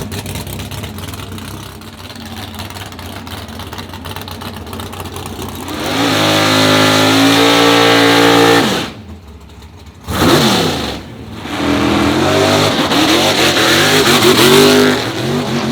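Engine of a 1978 Oldsmobile Cutlass Supreme wheelstander at wide-open throttle on a drag-strip run. It comes in loud about six seconds in, climbing in pitch, then cuts off sharply. After a short blast and another cut it comes back on with a wavering pitch. This is throttle burping to control the car's height during a wheelstand.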